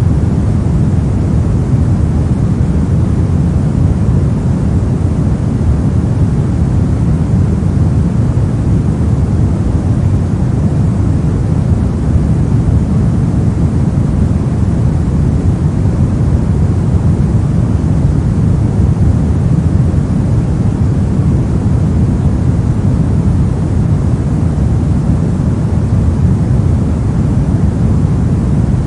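Continuous generated pink noise: an even, unbroken rushing hiss, weighted toward the low end, with no changes.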